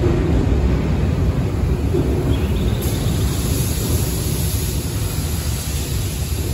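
Nankai electric commuter train running past close by along the platform: a steady rumble of wheels and running gear that eases off slightly near the end.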